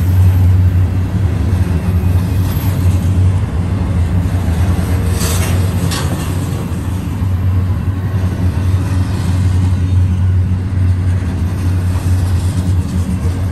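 Double-stack container well cars of a freight train rolling past close by: a steady, loud low rumble of steel wheels on rail, with two brief higher-pitched sounds about five and six seconds in.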